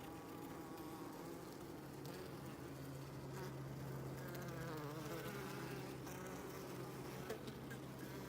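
Honeybees buzzing, with bees flying close past so the buzz wavers up and down in pitch, over a steady low hum that grows louder about two seconds in.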